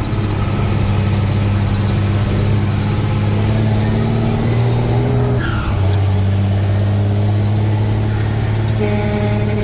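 Truck engine running steadily, with a short dip and a slight drop in pitch a little past halfway; a higher steady tone joins near the end.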